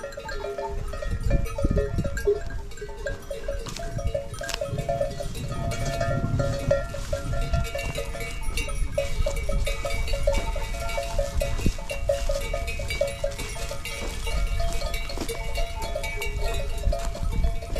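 Several livestock bells clanking irregularly and continuously, as from grazing animals wearing bells, over a low rumble.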